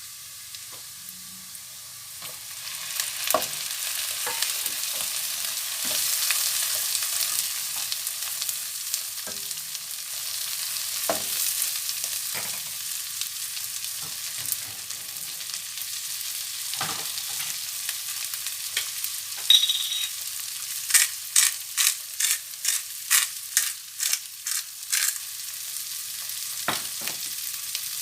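Food sizzling in a frying pan while a utensil stirs it, scraping and knocking against the pan. Near the end comes a quick run of about a dozen strikes on the pan, roughly two or three a second.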